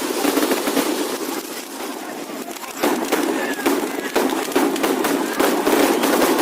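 Firecrackers going off in a dense, rapid string of cracks. The crackling thins out about a second and a half in, then picks up again loudly just under three seconds in.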